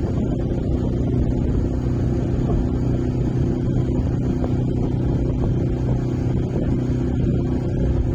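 Steady low engine drone running at an even, unchanging speed, with a constant hum and no distinct knocks or changes.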